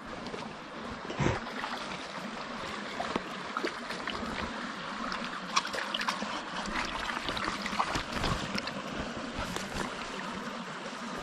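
Creek water running and trickling steadily, with scattered small clicks and a low knock about a second in.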